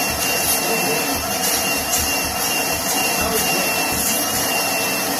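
Titan canister vacuum cleaner's motor running steadily with its hose on the correct port: a loud rush of air with a thin, steady high whine over it.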